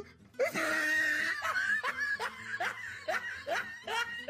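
A person laughing hard in a run of short, rising bursts, about two or three a second.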